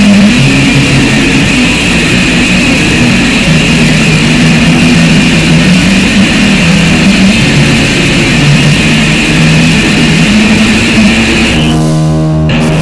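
Loud, harsh distorted noise music: a fuzzy drone with a bright hiss on top and low pitches stepping to new notes every second or two. About twelve seconds in, the high end briefly drops out, leaving a muffled sound.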